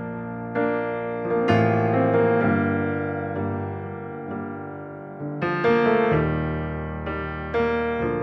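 Keyboard playing slow piano chords alone: a few chords struck a couple of seconds apart, each left to ring and fade.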